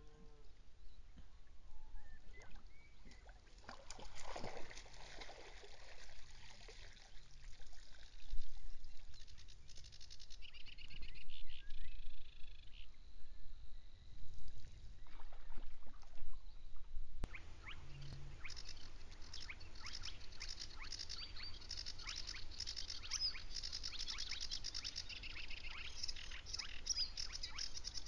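Small birds calling and singing outdoors over a steady low rumble. About two-thirds of the way through the sound changes abruptly, and the song becomes a dense, fast run of repeated high notes.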